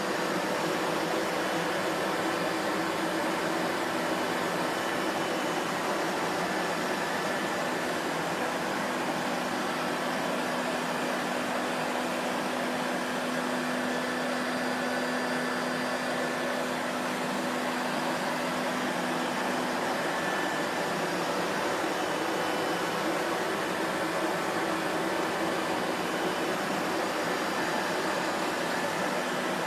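Vacuum cleaner running steadily: an even whooshing whir with a faint constant hum beneath it.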